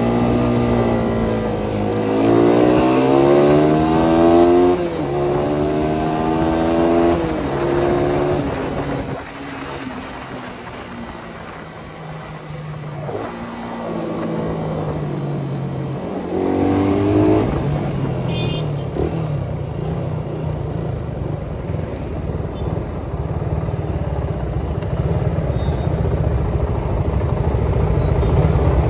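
Suzuki Satria FU 150 single-cylinder four-stroke engine through its Thai-market CBU exhaust, accelerating through the gears. The pitch climbs and drops at each shift, the engine eases off in the middle, then pulls again and runs steadily, getting louder near the end.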